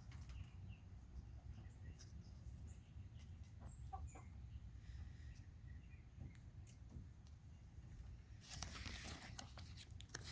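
Faint, scattered bird-like chirps over a low steady hum, with a stretch of rustling near the end.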